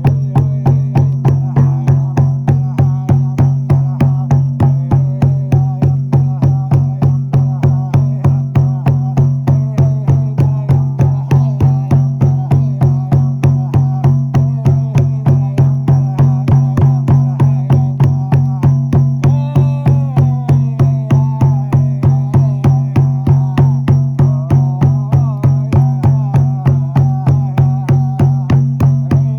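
Shamanic frame drum beaten in a steady, even rhythm of about three strokes a second, each stroke a low boom. A faint wavering pitched tone runs over the beat.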